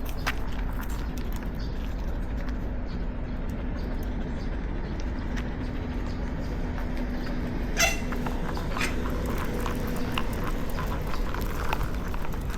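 Street ambience on a dog walk: a steady low rumble with a faint droning tone, light irregular footsteps on pavement, and one sharp click a little before eight seconds in.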